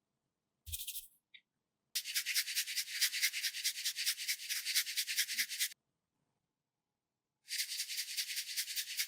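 Rapid rhythmic rubbing strokes, several a second, in a long run and then a second run after a sudden silence.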